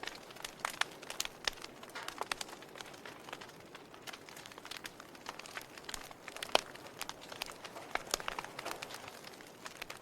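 Log fire burning in a fireplace: irregular crackles and pops over a soft steady hiss, the sharpest pop about six and a half seconds in.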